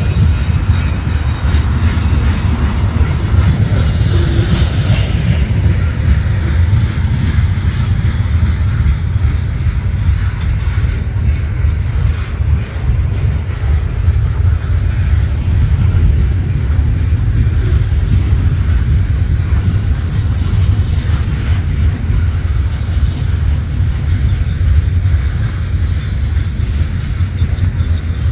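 Freight train cars, covered hoppers and boxcars, rolling past: a steady, heavy rumble of steel wheels on the rails.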